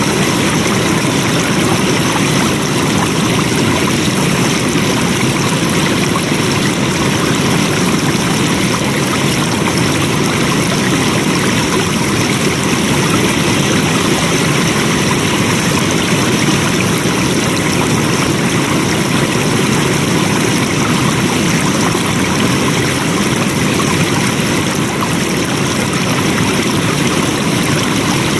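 Flowing water, a steady, even rushing with no breaks or changes.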